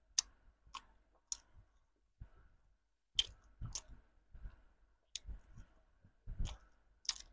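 Close-miked mouth sounds of chewing soft bread: sharp, irregular wet smacks and clicks of lips and tongue, about one or two a second, with a short quiet pause a little before the middle.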